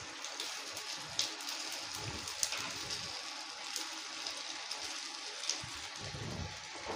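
Steamed muthiya pieces sizzling in hot tempering oil with mustard seeds, sesame and curry leaves: a steady frying hiss with scattered crackles and pops.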